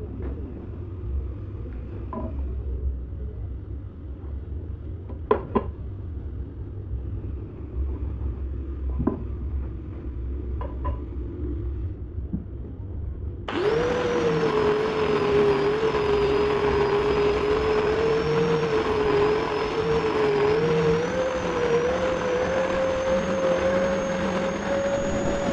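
A few scattered knocks and handling sounds on wood. About halfway through, an electric woodworking power tool switches on and runs steadily with a high whine that wavers slightly in pitch.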